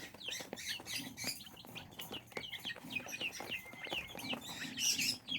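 A brood of young chicks (Wyandotte, Brahma, Silkie and Serama) peeping rapidly and continuously, many short falling chirps overlapping, with a few light knocks among them.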